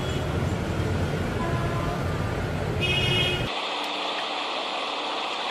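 Vehicle road and engine noise, a steady low rumble, with a short high-pitched tone a little under three seconds in. About three and a half seconds in, the rumble cuts off abruptly and gives way to a thinner steady hiss.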